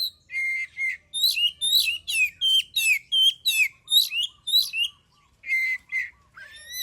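Oriental magpie-robin (kacer) singing: a fast string of loud, clear whistled notes that slide up and down, about two a second, with a brief pause about five seconds in.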